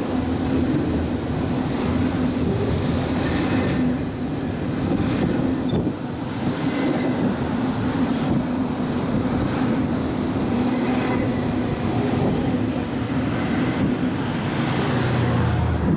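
Intermodal freight train's container cars rolling past below, steel wheels rumbling steadily on the rails, with a few brief high-pitched squeals.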